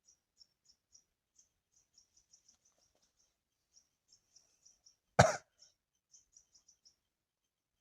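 Small birds chirping faintly and quickly at a high pitch, several chirps a second, with one short, loud burst about five seconds in that sounds like a cough.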